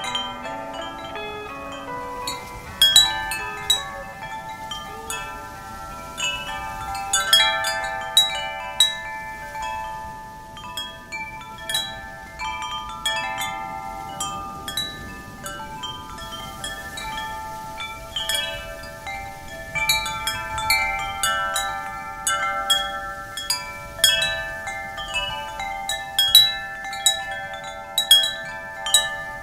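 Wind chimes ringing as the wind knocks them, with overlapping tones struck at irregular moments and left to ring, over a faint background of wind.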